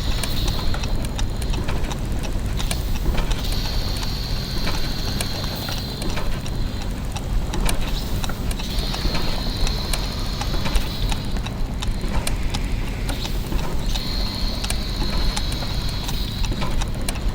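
Clockwork and gear mechanisms running together: a constant low mechanical rumble under dense, irregular ticking and clicking. A high whine comes in for about three seconds at a time, three times, roughly every five seconds.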